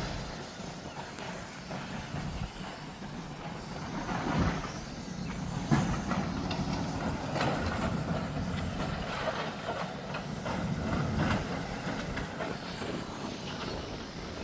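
Heavy demolition machinery running steadily, with irregular knocks and clatter of material being broken or moved.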